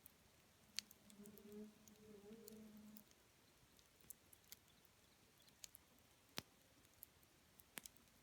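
Wood fire crackling quietly, with scattered sharp pops and snaps from the burning wood, about a dozen, irregularly spaced.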